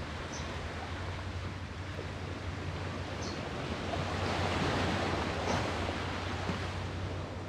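Sea waves washing on the shore: a steady rushing that swells to its loudest a little past the middle and then eases off.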